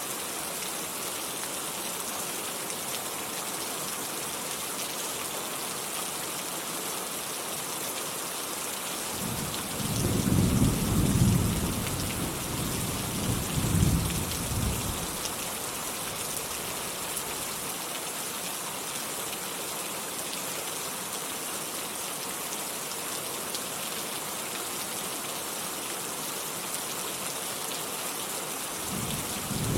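Steady rain falling, with rolls of thunder rumbling about ten seconds in, swelling twice over several seconds, and another roll beginning near the end.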